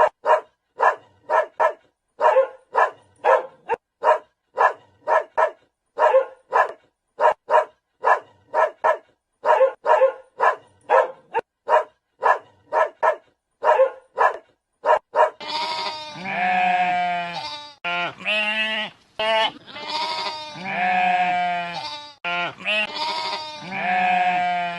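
A dog barking in quick runs of short, sharp barks for most of the stretch. About fifteen seconds in, goats take over, bleating in long, wavering calls about a second each.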